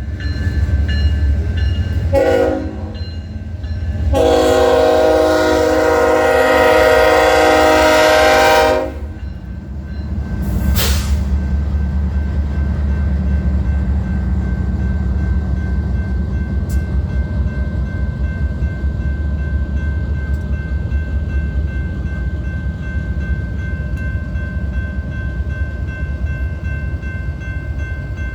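Diesel freight locomotive horn sounding a short blast and then a long blast of about five seconds, the end of a grade-crossing signal. A train then rolls past with a steady low rumble.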